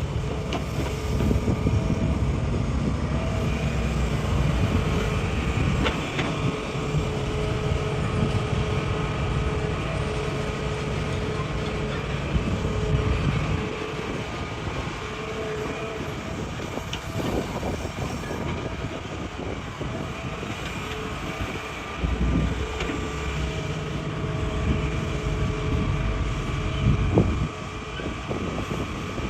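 Hitachi excavator's diesel engine running under load with a steady hydraulic whine. It eases off about halfway through and picks up again near the end, with a few knocks of the bucket on rock.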